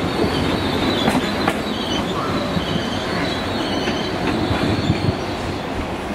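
Trains moving slowly through the station: a GWR Class 800 passing close by and a Class 231 unit coming in, with a steady rumble of wheels on rail, high-pitched wheel squeal, and a few clicks over rail joints in the first couple of seconds.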